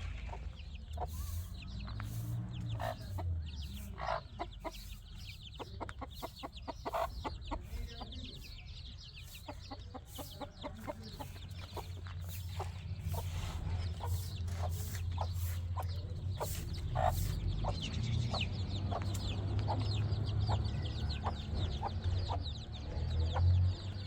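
Birds calling: many short, rapid chirps and clucks keep up throughout, over a low steady hum.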